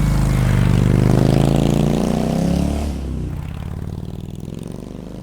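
Motorcycle engine revving, its pitch rising and then falling, then fading away over the last couple of seconds.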